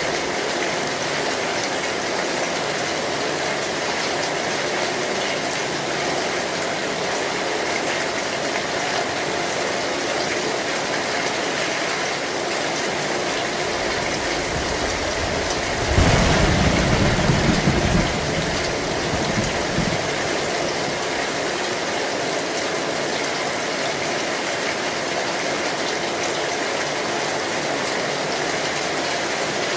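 Heavy rain pouring steadily on an old metal roof. About sixteen seconds in, a low rumble of thunder swells for roughly two seconds, with a fainter one just after.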